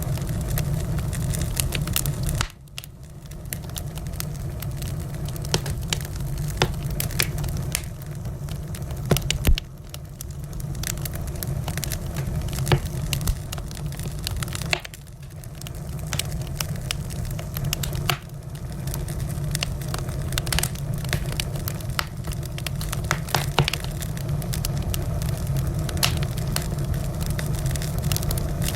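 Wood fire burning in a fireplace: frequent sharp crackles and pops over a steady low roar. A few times the low roar drops away suddenly and builds back up over a second or two.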